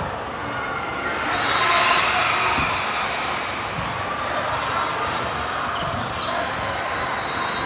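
Indoor volleyball game: ball contacts and a noisy mix of player and spectator voices, swelling louder about a second and a half in.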